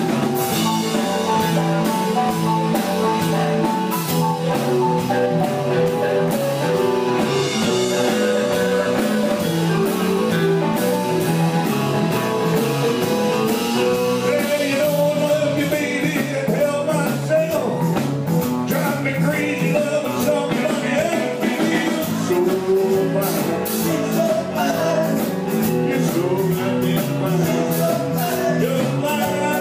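Live blues-rock band playing, with electric guitar, drum kit and singing.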